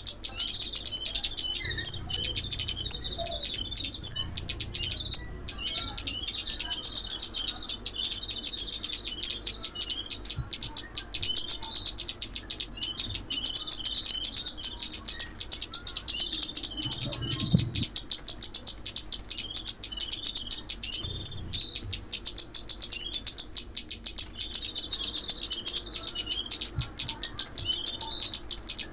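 Sunbirds calling: rapid, high, continuous twittering chirps, played as a lure call for trapping.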